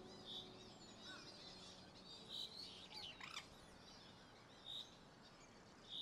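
Faint woodland birdsong: a short high call repeated roughly every two seconds among other scattered chirps and twitters.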